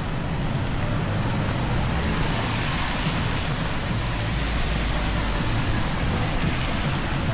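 Steady rain, an even dense hiss, over the low rumble of city street traffic.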